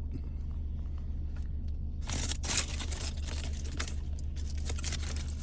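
Irregular crunching and crinkling from eating a taco and handling its wrapper at close range, loudest a little over two seconds in, over a steady low hum inside a parked car.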